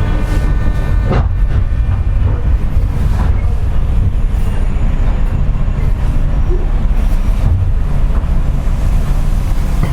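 JR West 201 series electric train car running on the rails with a steady low rumble, and a few sharp clacks about a second in, around three seconds and at the end.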